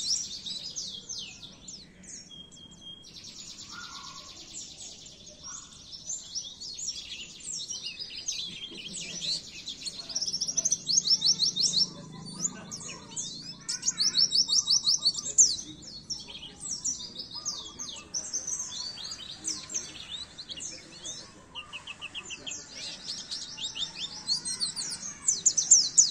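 White-eye (pleci) singing a fast, high twittering song of rapid trills and chirp runs, broken by short pauses.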